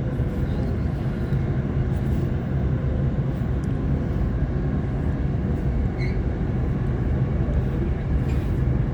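Waratah electric multiple unit train running at speed, heard from inside the carriage: a steady rumble of wheels on track with a low hum from the traction equipment.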